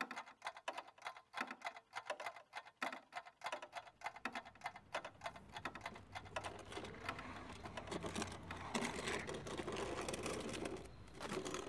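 Heavy old wooden chest (nagamochi) dragged along an asphalt path. At first it gives a rapid juddering rattle of clicks, which turns into a steadier, louder scraping from about five seconds in.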